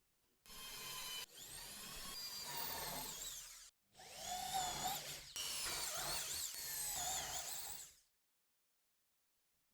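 A power tool running in stretches, its high whine sliding up and down in pitch as it works. It breaks off briefly a few times and stops sharply near the end.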